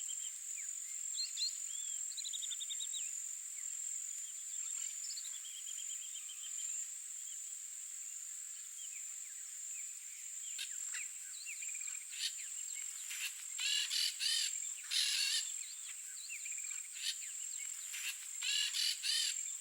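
A steady, high insect drone runs throughout, with a bird's short trills in the first half. In the second half come loud bouts of harsh, screechy chattering calls, typical of a flock of blaze-winged parakeets.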